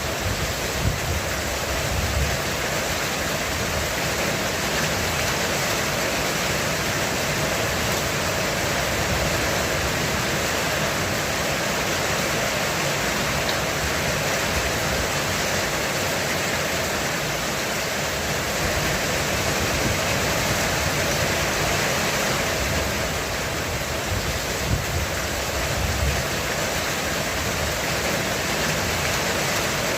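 Heavy rain drumming on a roof, a dense, steady hiss that does not let up.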